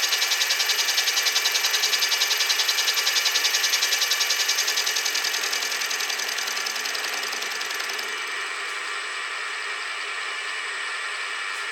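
Machine tool cutting metal, with a rapid, even pulsing that fades after about five seconds, leaving a weaker steady running sound.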